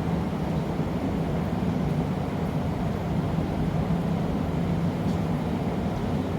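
Steady low rumble of glassblowing workshop equipment running, with no distinct knocks or clinks.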